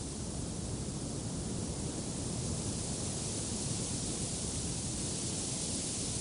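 Wind blowing in a steady rush, swelling a little partway through and easing near the end.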